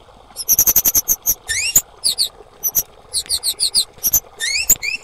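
Female kemade bird calling: fast runs of sharp, high chips alternating with quick upward-sweeping whistles, repeated over and over. It is the lure call used to provoke other kemade birds into singing.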